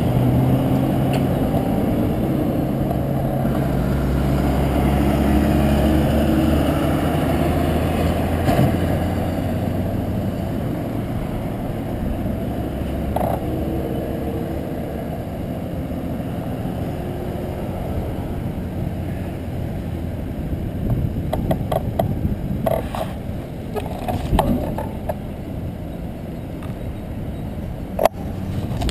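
Road traffic heard while cycling: a motor vehicle's engine hums steadily through the first several seconds over a low rush of wind and road noise. A series of sharp clicks and knocks comes near the end.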